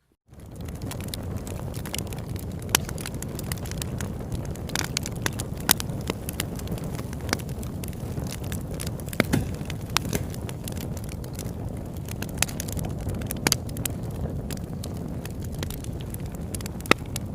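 Campfire burning, with irregular sharp crackles and pops over a steady low rush; a few pops stand out louder.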